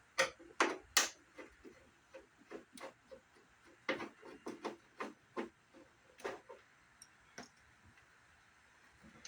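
Irregular clicks and knocks of plastic and small hardware as a CRT monitor's casing is handled and taken apart, busiest in the first second and again around the middle, going still near the end.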